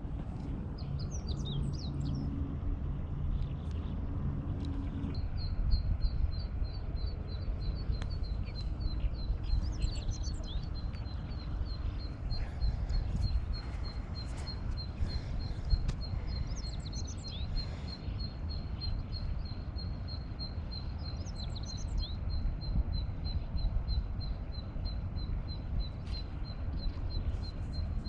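Wild birds chirping in short scattered calls over a steady low outdoor rumble. From about five seconds in, a rapid, even string of high notes on one pitch runs on until near the end.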